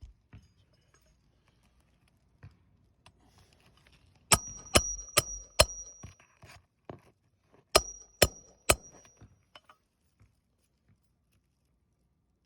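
Hammer blows on a metal nail-driving roof tool, setting roofing nails under a lifted asphalt shingle. There are four quick ringing strikes about four seconds in, then three more about three seconds later.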